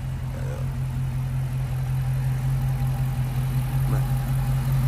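Dodge Challenger Scat Pack's 392 (6.4-litre) HEMI V8 idling steadily, with its deep, even low note.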